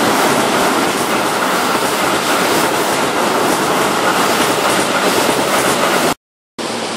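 Keihan 13000-series electric train running past on curving track: a steady rumble of wheels on rail with rapid, regular clacks as the wheels cross rail joints. The sound cuts off suddenly about six seconds in, leaving a brief silence.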